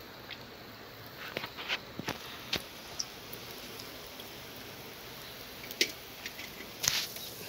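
Medu vadai (urad dal fritters) deep-frying in well-heated oil in a kadai: a steady sizzle with scattered sharp pops and crackles.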